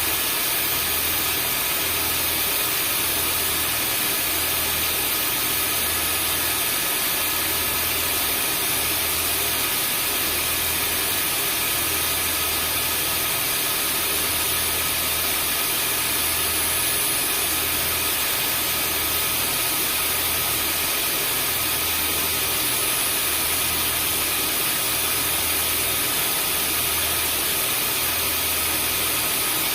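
Vacuum cleaner motor running steadily: an even rush of air with a high motor whine, over a low hum that swells and fades in a slow, regular pulse.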